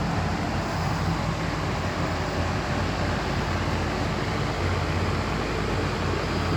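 Steady mechanical hum and rushing noise with a low drone underneath, unchanging throughout.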